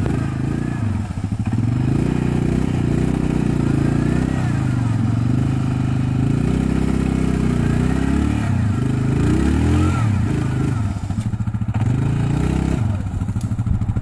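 Quad bike engine revving up and down repeatedly under load as it is driven through a mud bog.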